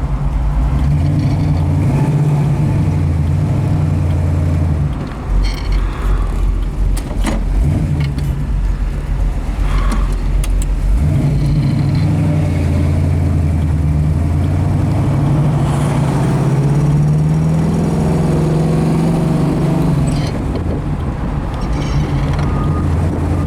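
A Camaro's 383 V8 pulling the car along under load, its drone rising and falling in pitch as it is run up and shifted through the four-speed manual gearbox. There are brief breaks around five and eleven seconds in, and a drop near twenty seconds.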